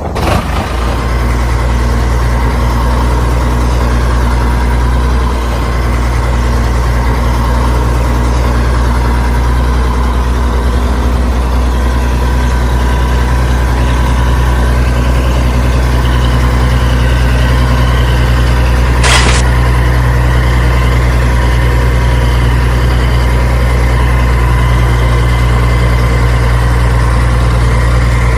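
An engine idling steadily, a deep constant hum with a faint high whine over it, and one short click about 19 seconds in.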